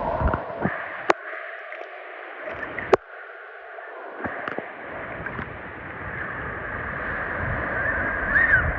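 Shore water gurgling and sloshing, with two sharp clicks about a second and three seconds in and a short high chirp near the end.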